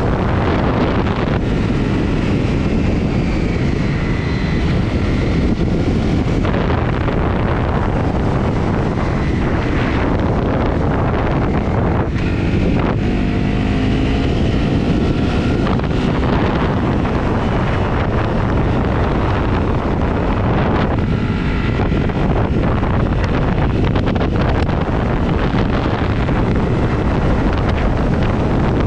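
Heavy wind buffeting on the microphone while riding a Honda CRF250, a single-cylinder four-stroke motorcycle, with its engine running underneath. About halfway through, the engine note rises briefly.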